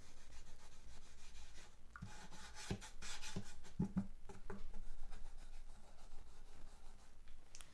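Cloth rag rubbing oil into a guitar's fretboard: a steady scrubbing with a few soft knocks in the middle.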